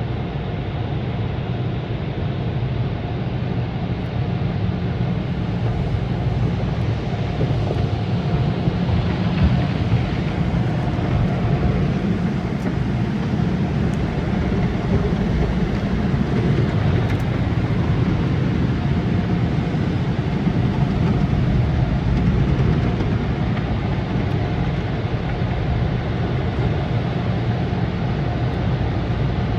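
AVW tunnel car wash machinery running: a steady, noisy rush over a low rumble with a faint steady hum, growing a little louder after the first few seconds.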